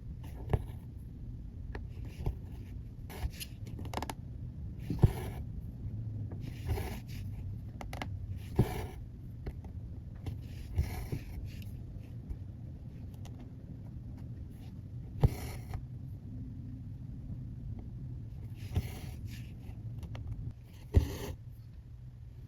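Cross-stitch needle and floss working through fabric: short swishes of thread being drawn through every two seconds or so, with sharp little taps as the needle pokes through the weave.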